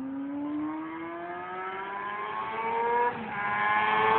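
Kawasaki Ninja ZX-6R inline-four sport bike engine accelerating hard, its pitch rising steadily and the sound growing louder, with a brief dip about three seconds in.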